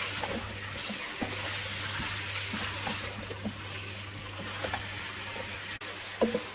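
Marinated boneless chicken sizzling as it fries in oil with onion paste, with scattered small clicks and scrapes.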